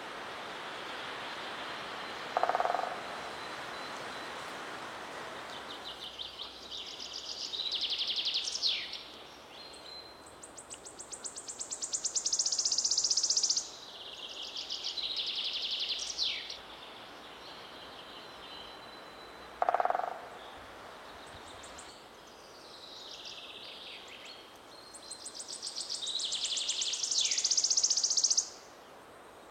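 Wild animal calls: high, rapidly pulsed trills that build in loudness and cut off abruptly, repeated a few times. Twice there is a short, lower call.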